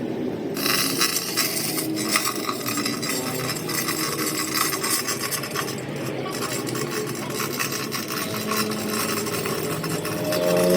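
Rasping, scraping metalwork on a truck axle housing, a dense crackle that starts about half a second in and keeps at an even level.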